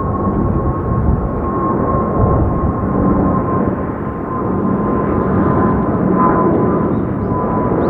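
Boeing 777 turbofan jet engines running loud and steady, with a high whine held on one note that sinks slightly over the seconds.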